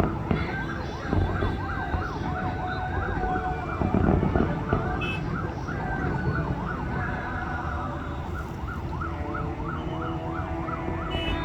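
Fireworks display: many fast-warbling, siren-like whistling tones overlap over a steady low rumble, with a heavier burst about four seconds in.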